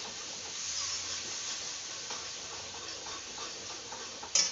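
Onion-tomato masala sizzling steadily in a kadhai over a wood fire while it is stirred with a ladle, with a sharp clack near the end.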